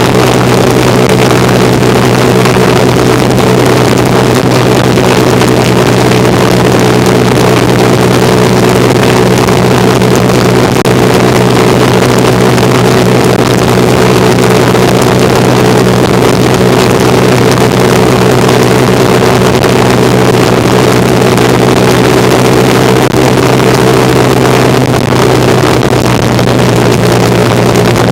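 1975 Kawasaki KZ400's four-stroke parallel-twin engine running at a steady pace while the motorcycle is ridden, over a haze of wind and road noise.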